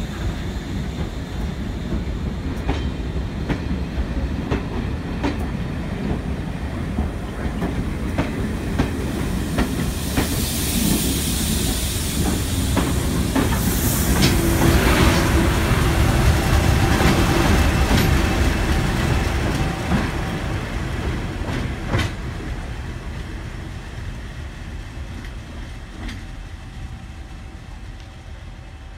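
Train of coaches passing close by, wheels clicking over the rail joints. About halfway through a diesel locomotive at the rear passes with a louder hiss and engine note, then the sound fades away steadily.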